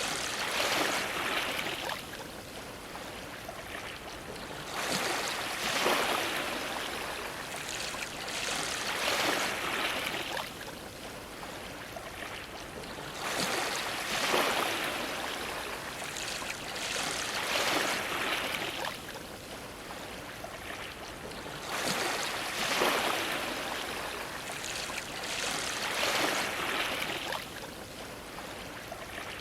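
Ocean waves washing against a dock, a steady wash of water that swells into a louder surge every few seconds and falls away.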